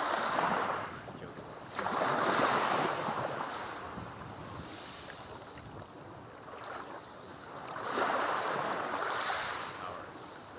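Sea waves breaking and washing up a black volcanic sand beach. Three surges come in: one at the start, one about two seconds in and one about eight seconds in, each swelling and then fading.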